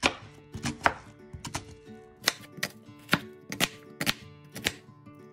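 A kitchen knife chopping and dicing an onion on a cutting board: a run of sharp knocks, roughly two a second.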